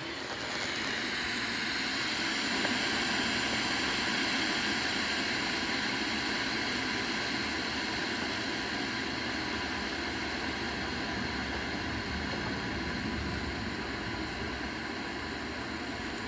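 Steady wind blowing through a tree, an even rushing noise that swells slightly over the first couple of seconds.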